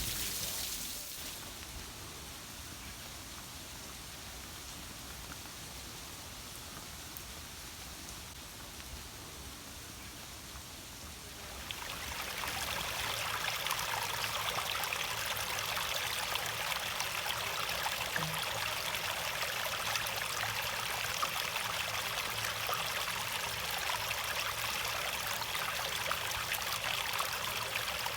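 Steady rain with running water, a continuous hiss that turns suddenly louder about twelve seconds in.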